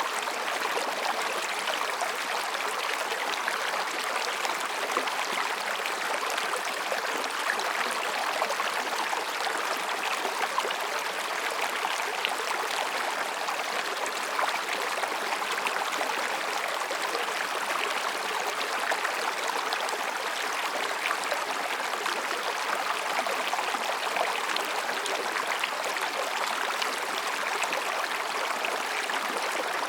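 Mountain stream babbling over rocks: a steady, even rush of flowing water.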